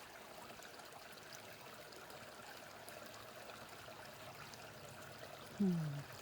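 Mountain brook babbling steadily. About five and a half seconds in, a short low voice sound, falling in pitch, rises above the water.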